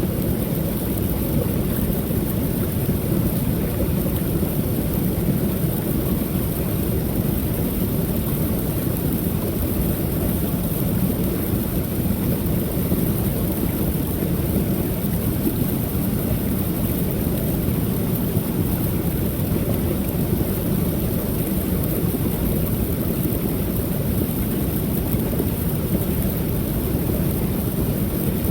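Creek waterfall pouring steadily: a constant, deep rush of falling water with a thin hiss above it.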